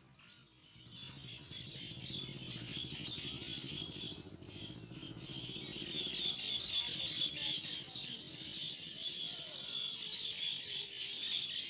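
A colony of baya weavers chattering: many high chirps overlapping continuously, growing louder and denser about halfway through, over a low rumble in the first half.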